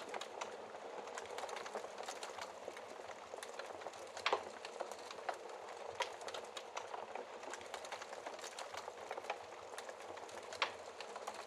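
Wood fire in a fireplace crackling: a steady hiss of flames with frequent small pops, and two louder snaps, about four seconds in and near the end.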